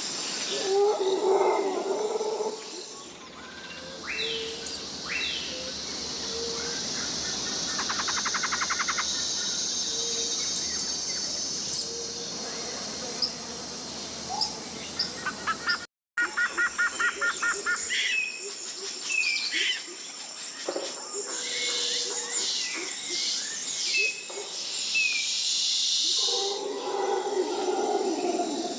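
Tropical rainforest ambience: a steady high buzz of insects with many short bird chirps and calls over it, and a few rapid trills. About halfway through it cuts out for an instant and picks up again.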